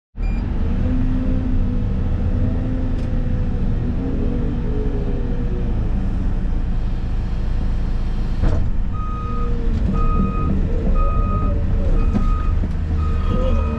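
Excavator's diesel engine running steadily, heard from inside the cab. About eight and a half seconds in there is a sharp clank, then a reversing alarm starts beeping about once a second.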